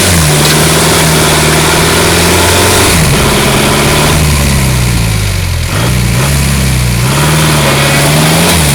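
Daihatsu Rocky's 2.8 L DL50 turbo diesel engine running at steady revs, then revving up and down several times from about three seconds in, with the ute bogged in mud.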